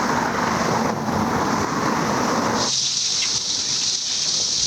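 Cicadas droning as a steady high-pitched chorus. For the first two and a half seconds a loud rushing noise lies over it, then cuts off suddenly, leaving the cicada drone on its own.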